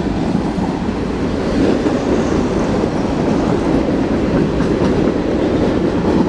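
Empty freight train cars rolling past close by: a loud, steady rumble of steel wheels on rail.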